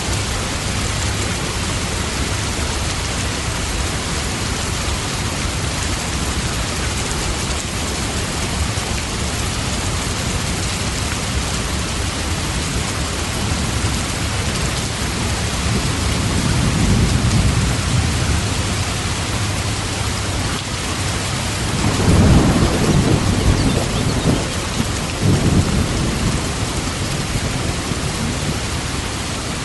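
Steady heavy rain falling, with thunder rumbling low in the background: a gentle swell about halfway through, then a louder rolling rumble a little past two-thirds of the way in that fades over several seconds.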